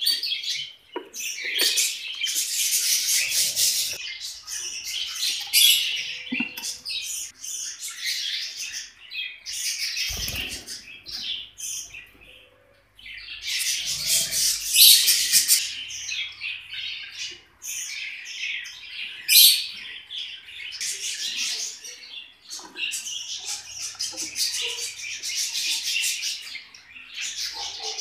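A flock of caged love birds (small parrots) chirping and chattering in a dense, constant jumble of short high calls, with a brief lull a little before the middle.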